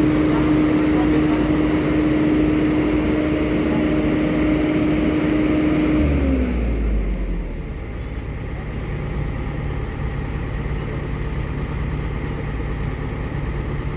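Heavy diesel engine running at high revs with a steady whine, then throttling down about six seconds in to a lower, quieter idle.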